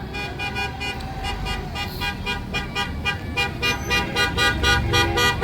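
Vehicle horns tooting in rapid, repeated short beeps over the low running of passing tractor and lorry engines; the engine sound grows louder near the end.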